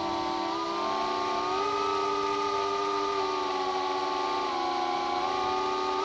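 iFlight Megabee 3 FPV quadcopter's motors and propellers whining, several steady pitches that shift up and down together as the throttle changes.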